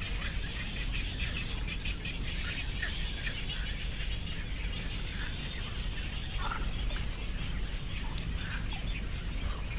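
Birds calling with many short, scattered chirps over a steady low background noise.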